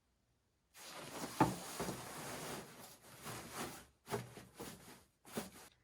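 Rustling and shuffling of the padded bassinet mattress as it is laid and pressed into the Pack 'n Play bassinet, with one sharp knock about a second and a half in and a few short rustles near the end.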